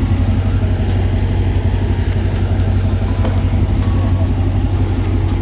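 Car engine idling with a steady, even low rumble.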